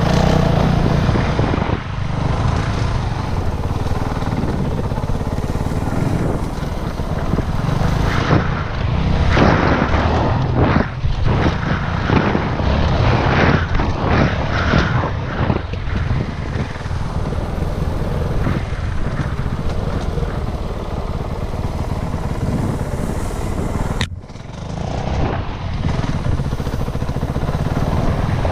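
Dirt bike engine running under way, heard through an action camera's microphone with heavy wind buffeting and rumble. The sound breaks off for an instant near the end and then resumes.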